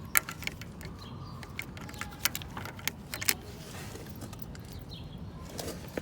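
Irregular metallic clicks and clinks of hand tools on the engine, about a dozen sharp ones in the first three seconds and a few more near the end, as the crankshaft is set up to be turned by hand for the valve-clearance check.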